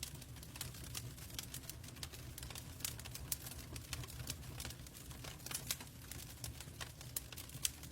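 Log fire crackling in a fireplace: irregular sharp pops and snaps over a low steady rumble of burning.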